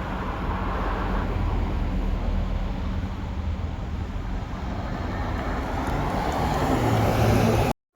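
Steady low hum of a moving road vehicle, slowly growing louder.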